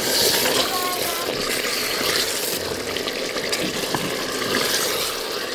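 Meat curry sizzling in a hot stone pot as a wooden spatula stirs it: a steady hiss, loudest in the first two or three seconds.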